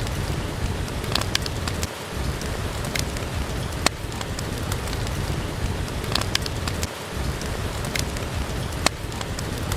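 Steady rain with the crackle of a wood fire burning in a fireplace, including a few sharp pops a second or more apart.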